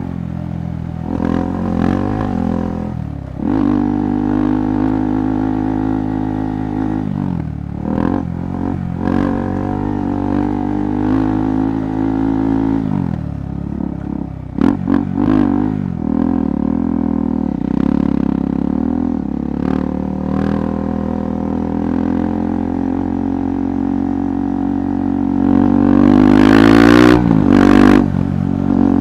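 KTM 390 Adventure Rally's single-cylinder engine being ridden off-road, its note rising and falling with the throttle, with a loudest rev-up near the end. Short knocks and rattles from rough ground come through here and there.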